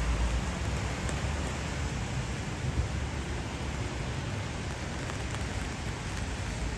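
Steady rain falling, an even hiss with a few scattered drop ticks. A low rumble fades out about half a second in.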